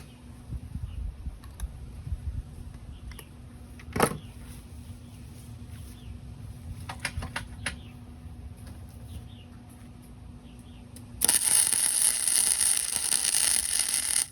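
Scattered clicks and knocks of metal being handled, then about eleven seconds in an electric welding arc strikes and crackles steadily for about three seconds, a short weld.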